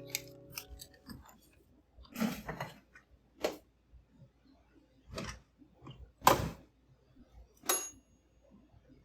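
Kitchen handling sounds: a handful of light knocks and clatters of utensils and dishes, about six in nine seconds, the loudest about six seconds in, and one near the end ringing briefly.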